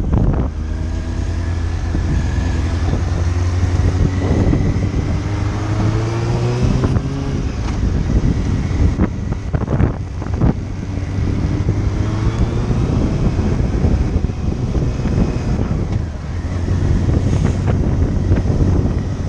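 Motorcycle engine accelerating, its pitch rising steadily for several seconds and then dropping away, with wind rushing over the microphone. A few sharp knocks come about ten seconds in, and the engine climbs again near the end.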